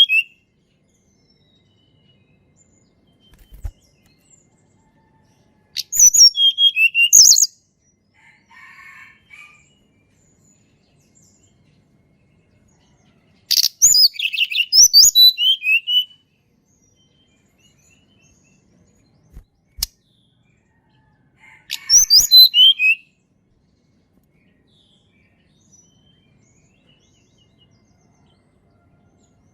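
Hill blue flycatcher singing: short phrases of quick, high whistled notes that slide downward, repeated about three times with several seconds of quiet between them.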